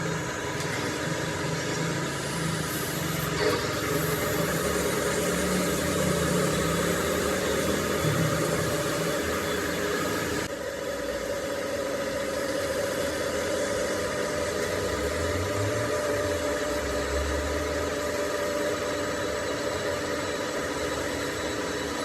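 Machine-shop machinery running steadily: a continuous motor hum with several steady tones. The sound shifts slightly and drops a little about ten seconds in.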